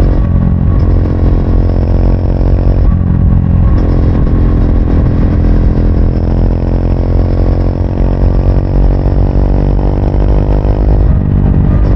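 2024 Triumph Speed 400's single-cylinder engine running as the motorcycle is ridden, its exhaust note steady. The note breaks off briefly about three seconds in and again near the end.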